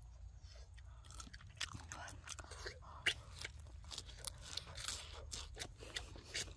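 A crisp lettuce leaf being bitten and chewed close to the mouth: a quick, irregular run of crunches that starts about a second in.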